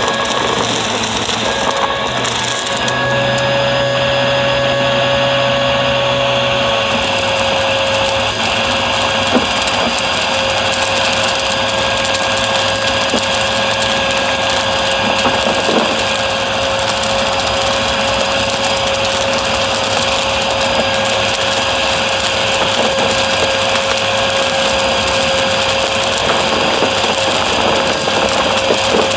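Upright vacuum cleaner running steadily, its motor giving a constant whine over a rushing airflow. The low hum changes about seven seconds in.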